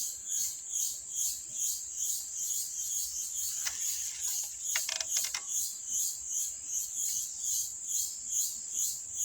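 A high, pulsing insect chorus, a steady buzz that swells about twice a second, with a few short crackles about four to five seconds in.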